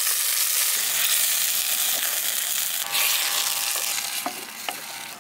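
Marinated goat lung pieces sizzling as they are tipped into hot onion-tomato masala in a clay pot and stirred with a spatula; the sizzle eases off near the end.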